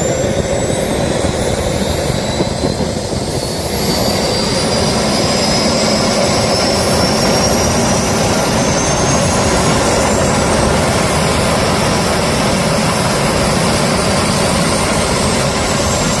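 Small jet engine running on a test start, a loud steady rush with high turbine whines that climb slowly in pitch as it spools up, getting louder about four seconds in and then holding.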